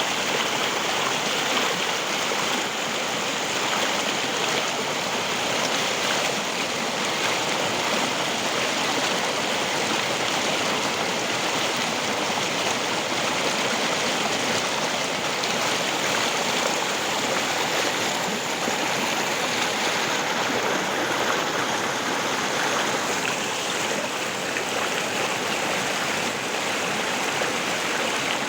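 River water flowing and rushing over rocks in a steady, even wash of noise.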